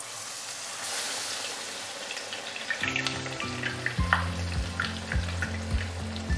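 A besan-battered bread slice deep-frying in hot oil in a kadai: a steady sizzle dotted with small crackles and pops. Background music with a low, steady beat comes in about three seconds in.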